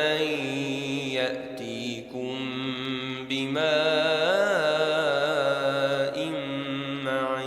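A man's voice chanting Quran recitation in melodic style, holding long notes with a wavering rise and fall of pitch.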